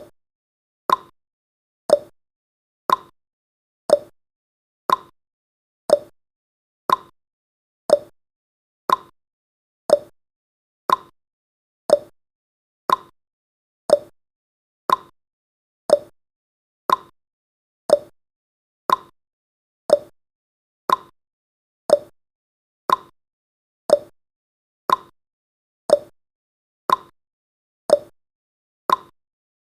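Countdown timer's clock-tick sound effect: one short tick every second, alternating higher and lower in pitch like a tick-tock, with silence between the ticks.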